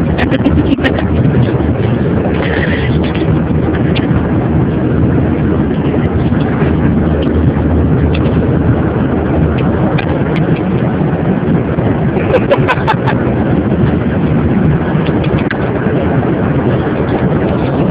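Loud, steady roar of an airplane's engines and rushing air, with a few faint clicks.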